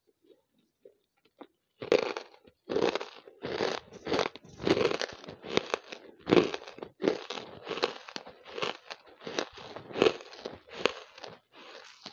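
Banslochan (tabasheer, the chalky silica from bamboo) being chewed right at a close-held earphone microphone: a steady run of sharp, dry crunches, about one and a half to two a second, starting about two seconds in after a few faint clicks.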